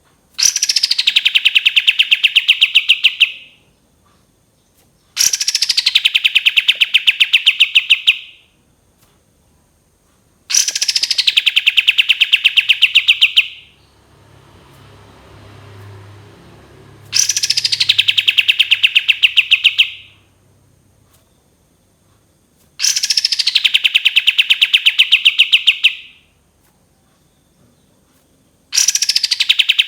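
Kapas tembak song, the long 'tembakan' trill: six bouts of about three seconds each, every one opening with a falling note that runs into a fast, even trill of repeated notes, with a pause of two to three seconds between bouts.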